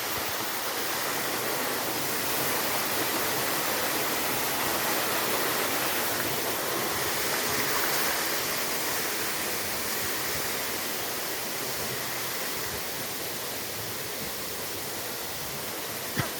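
Steady rush of water from a small waterfall, easing slightly in level over the last several seconds.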